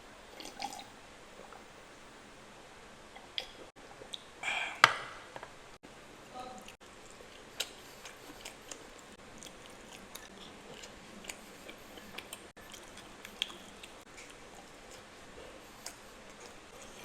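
Close-up eating sounds: scattered soft mouth clicks and chewing, with one louder brief sound about four and a half seconds in.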